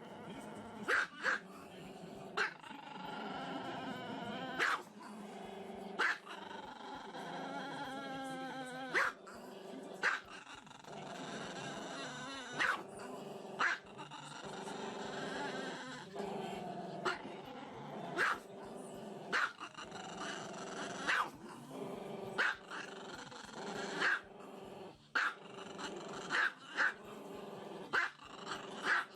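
A dog growling in long, wavering stretches, broken by short, sharp barks every second or two.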